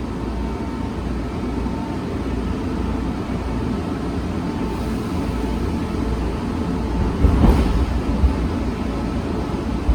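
Seoul Metro Line 3 subway train with GEC chopper control running between stations, heard inside the car: a steady rumble of wheels and traction motors, with a brief louder clatter about seven and a half seconds in.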